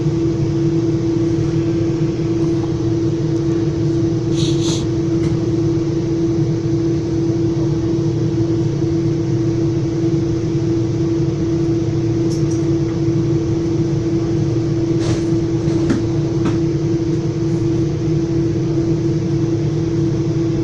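Inside a Metra commuter train's passenger car while it runs between stations: a steady rumble with a constant hum, and a few faint brief clicks.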